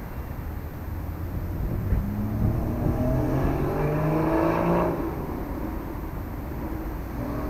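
A motor vehicle engine accelerating, its pitch rising from about two seconds in and dropping away suddenly near five seconds, over a steady low engine rumble.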